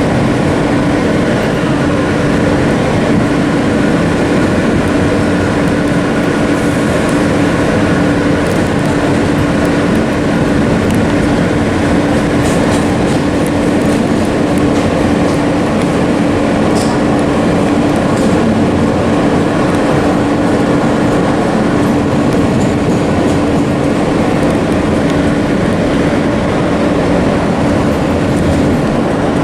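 A vintage subway train running on the track: a loud, steady rumble of running noise with a steady low hum.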